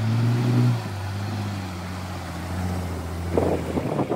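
Engine of a Toyota Land Cruiser 40-series off-roader running backwards with a steady low drone, a fault the bystanders shout about as they urge the driver to shut it off. The drone is loud at first and drops in level under a second in; about three seconds in it gives way to rough gusts of wind on the microphone.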